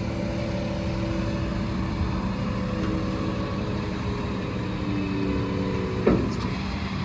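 Vehicle engine running steadily at idle, a low even hum with faint drifting tones above it; a short, sharp loud sound about six seconds in.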